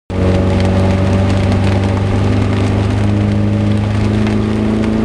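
Morgan 4/4's four-cylinder engine running steadily under way, its pitch creeping up slightly midway, with heavy rain hitting the car as a dense patter of sharp ticks.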